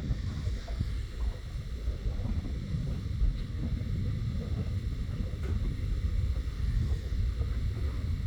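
Wind buffeting the microphone: a low, uneven rumble throughout.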